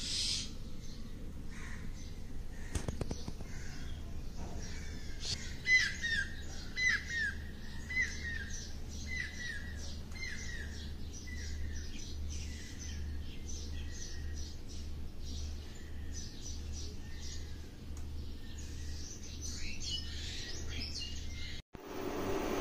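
Birds calling: one bird gives a short falling call about once a second for some ten seconds, over scattered higher chirps from others. A steady low hum runs underneath.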